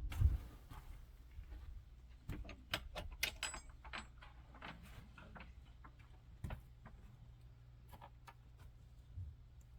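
Scattered light clicks and knocks, thickest between about two and four and a half seconds in, with a brief metallic jingle a little over three seconds in, over a faint low rumble.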